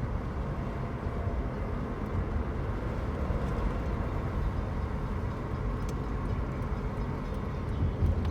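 Steady low vehicle rumble with no horn or distinct passing.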